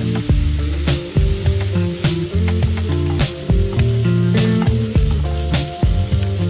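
Chicken pieces sizzling on a hot grill pan, under background music with a steady beat of about one stroke a second.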